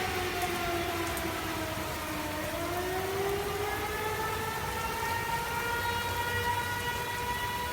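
Outdoor tornado warning siren wailing: its pitch falls for about two seconds, then rises again and holds a steady tone.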